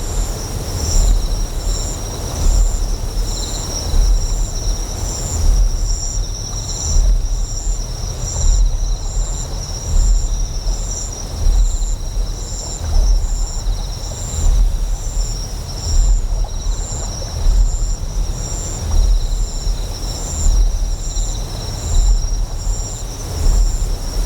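Sound-designed ambience of a huge generator: a deep hum that swells in a slow pulse about every one and a half seconds, under high insect chirping in a steady regular rhythm and a hiss of flowing water.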